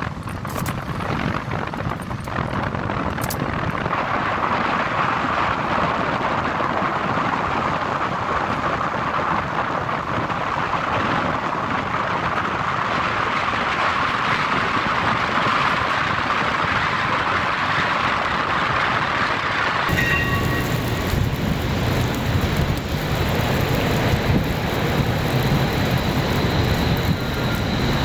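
Steady city street noise with passing traffic. About twenty seconds in it changes abruptly to a deeper, rumbling traffic noise with faint high tones.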